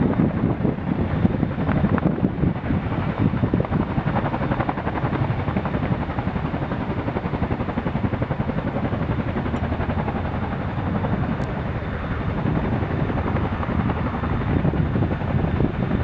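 Boeing CH-47F Chinook tandem-rotor helicopter running, its rotors making a loud continuous chop of fast, even pulses.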